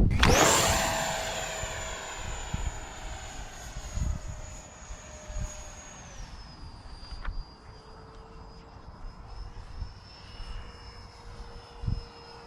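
Whine of a model jet's 64 mm FMS electric ducted fan on a 4S battery, in flight. It starts suddenly and loudly, fades over the next couple of seconds, then steadies. About six seconds in, the pitch drops a step.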